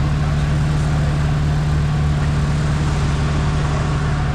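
Off-road competition truck's engine idling steadily, a constant low drone with no revving.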